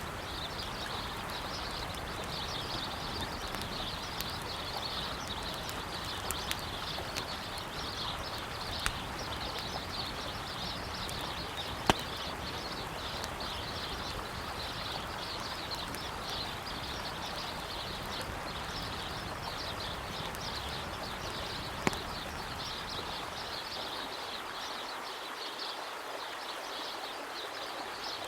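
Steady rush of a flowing river with birds chirping continuously, and a campfire crackling with a few sharp wood pops, the loudest about twelve seconds in and another near twenty-two seconds.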